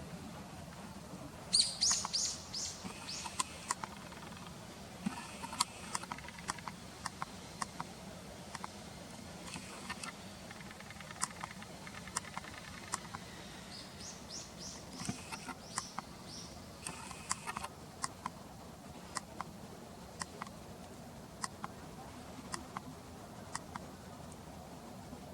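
Bird calls: a quick run of high chirping notes about two seconds in, another run of similar notes about fourteen seconds in, and scattered short sharp ticks in between.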